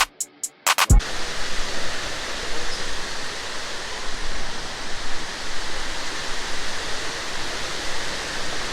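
A few sharp ticks as a music track ends, then about a second in a cut to the steady, even rush of a large waterfall.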